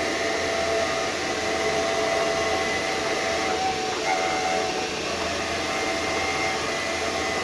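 VW Touareg prop-shaft centre bearing spun in a lathe, running with a steady noise and several steady tones. This is the noise the owner has been hunting, and he thinks the centre bearing is its cause.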